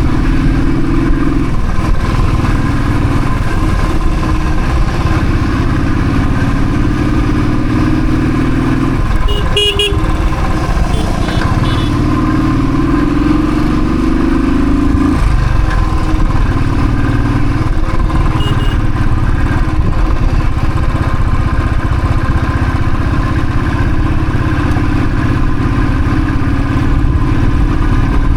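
Royal Enfield Thunderbird's single-cylinder engine running while being ridden, its pitch rising and falling as the throttle and speed change, with steady wind and road rush.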